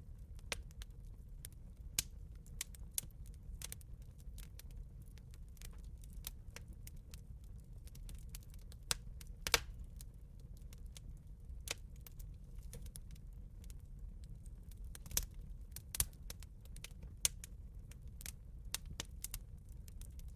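Wood bonfire crackling: irregular sharp pops and snaps over a low steady rumble, with a few louder pops about halfway through and again about three quarters through.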